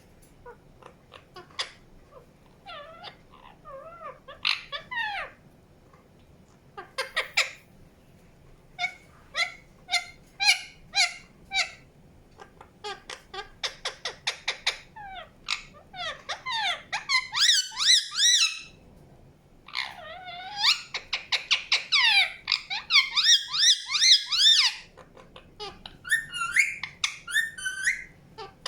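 Indian ringneck parakeet chirping: a string of short, sharp chirps and squeaks, running into stretches of rapid warbling chatter about halfway through and again near the end.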